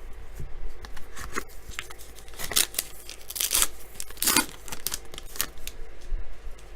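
Baseball trading cards being slid off a stack by hand one after another, a series of short swishes of card stock rubbing on card stock.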